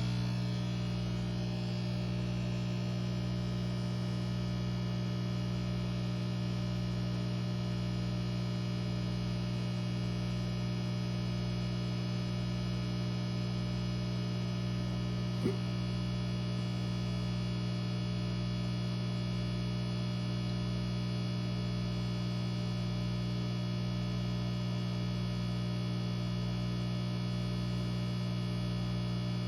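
Aquarium air pump (bubbler) running with a steady electric hum, with one brief click about halfway through.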